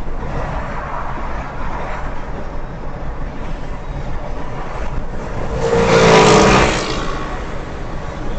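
Steady road and tyre noise from inside a moving car on a highway. About six seconds in, a passing vehicle's noise swells up and fades away over a second or two.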